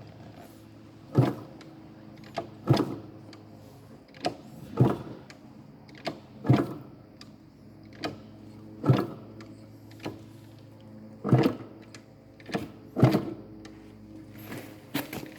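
Yamaha RD50 two-stroke engine running roughly: a steady low hum broken by loud, sharp bangs every second or two. The engine will not rev, and the owner suspects a primary (crankcase) compression leak.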